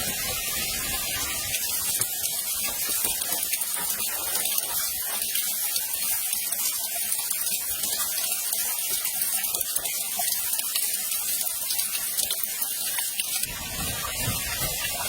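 Steady hiss and rush of falling water from a waterfall, with a deeper rumble coming in near the end.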